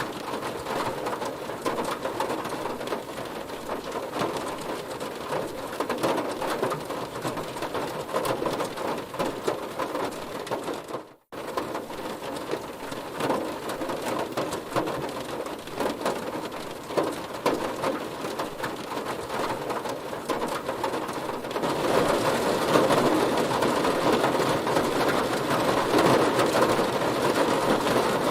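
Heavy rain falling on a car, a dense steady patter of drops. It cuts out for an instant about eleven seconds in and grows louder about twenty-two seconds in.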